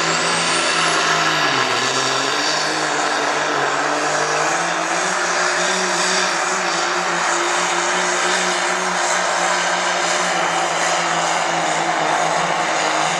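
Diesel pickup truck in the 2.6-inch turbo class running at full throttle under load down the pull track, its turbocharger whistle climbing steeply in pitch over the first two seconds and then holding high. The engine note dips briefly about a second and a half in, then runs steady and loud.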